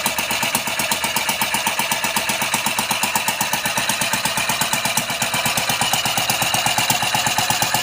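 Homemade beer-can engine running at a steady idle, with rapid, even firing pulses.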